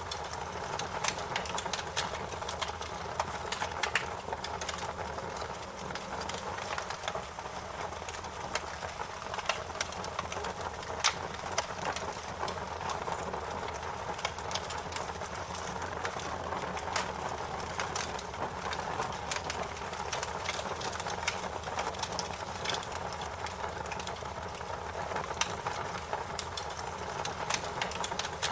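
Wood fire crackling steadily, with many sharp irregular pops and snaps over a constant low hiss.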